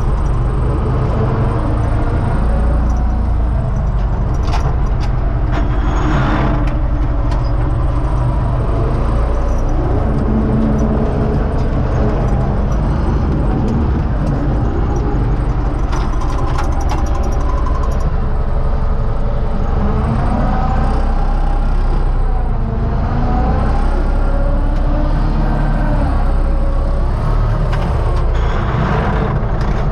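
Universal 650 tractor's diesel engine running steadily, with occasional rattles and knocks.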